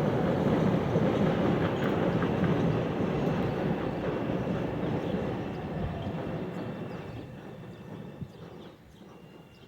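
Train running along the tracks, a steady rumble of wheels on rail that fades away over the last few seconds as it moves off.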